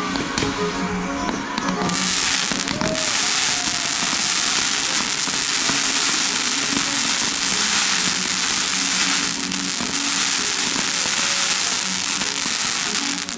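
Fireworks crackling densely over background music, starting about two seconds in and cutting off abruptly near the end.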